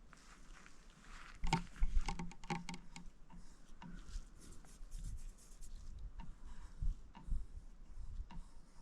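Oil-paint brush dabbing and scrubbing on a painting panel: a quick run of taps and scratches, thickest a second or two in, then scattered strokes.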